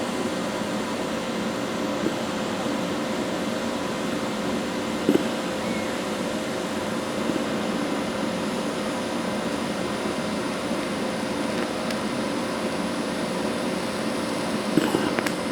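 Electric welding arc crackling and hissing steadily while a smoothing pass is run over a weld seam on quarter-inch steel plate, with a steady hum underneath and a couple of brief clicks.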